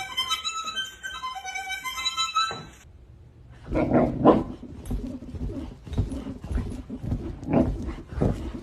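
Background music for the first couple of seconds, then, after a brief gap, a dog vocalizing in a run of short, irregular sounds.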